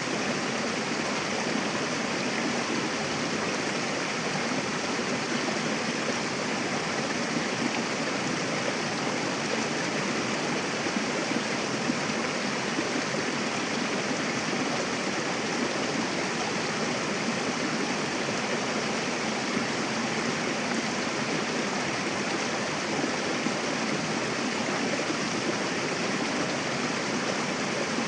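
Mountain river rushing over rocks: a steady, even wash of flowing water with no breaks.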